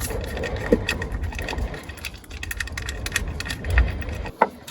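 Scattered clicks, light knocks and rattles of hands and tools working the unbolted ignition distribution pack (the V5's coil pack) loose from the engine, with a dull knock near the end.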